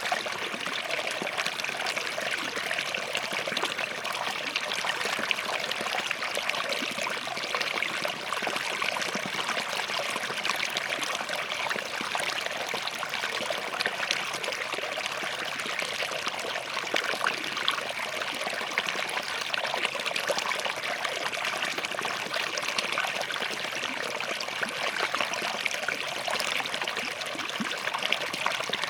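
Small forest stream flowing and trickling over rocks, a steady splashing babble with no let-up.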